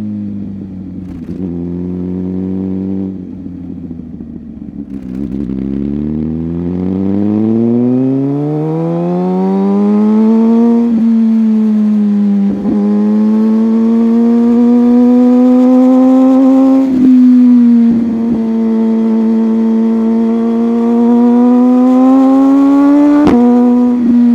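Sport motorcycle engine under way: it slows at first, then accelerates with its pitch climbing for several seconds and shifts up. It runs on at high, fairly steady revs, broken by several brief dips at gear changes.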